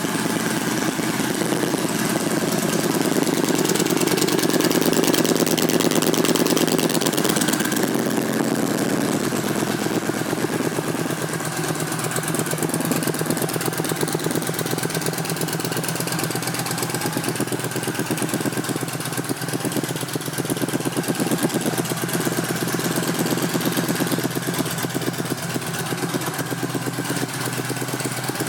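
Yamaha V-Star 1300's V-twin engine idling through aftermarket Cobra exhaust pipes, a little louder for a few seconds near the start, then steady.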